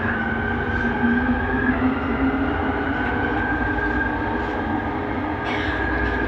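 Bombardier Innovia Metro 300 metro train running between stations, heard from inside the car. There is steady rolling noise, a high steady whine from its linear induction motor propulsion, and a lower tone that rises slightly. A brief hiss comes about five and a half seconds in.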